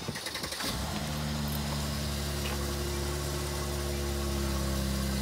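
Mercedes-Benz car engine cranking briefly, catching about a second in, then idling steadily.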